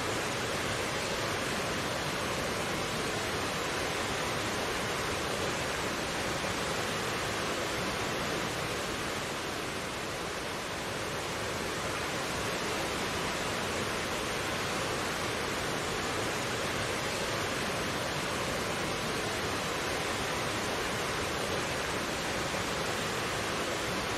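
Mountain stream flowing, a steady rush of water with no breaks or changes.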